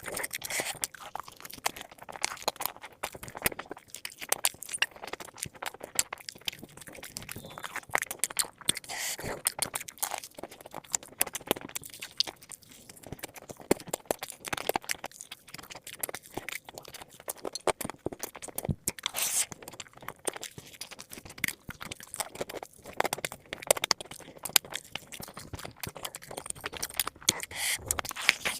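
Close-miked crunching and chewing of crispy fried chicken drumsticks: a dense, irregular run of crackly bites and wet chewing.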